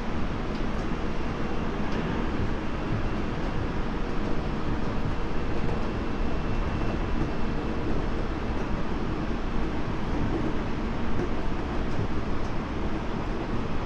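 Running noise inside a Tobu 30000 series electric train's motor car (Hitachi IGBT-VVVF drive) at speed: a steady rumble of wheels on rail with a faint, steady high whine.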